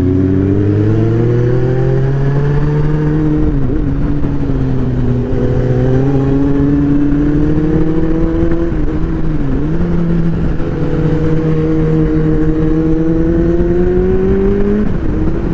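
Superbike engine running under way, its pitch climbing slowly as it accelerates, with brief sharp drops about four, nine and fifteen seconds in, typical of throttle changes or gear shifts.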